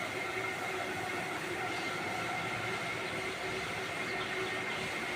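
A steady mechanical drone with a few constant whining tones running through it, unchanging throughout.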